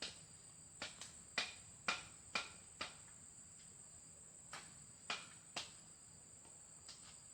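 Insects, crickets by the tags, chirring steadily in a high even tone. Over it come a series of short, light knocks or taps, mostly about half a second apart, in two groups.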